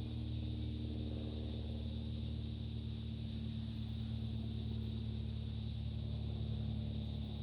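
Aircraft engines droning steadily, a low hum with a few held tones and a faint high whine.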